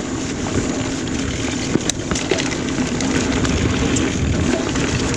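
Mountain bike rolling along a dirt trail: steady tyre and riding noise with scattered clicks and rattles from the bike.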